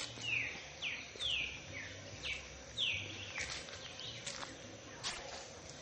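Bird singing: a run of about six clear notes, each sliding down in pitch, about two a second, followed by a few short sharp chips.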